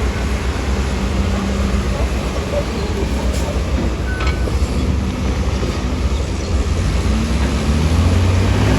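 Heavy diesel engine of earthmoving machinery running steadily, with a low rumble that grows louder near the end.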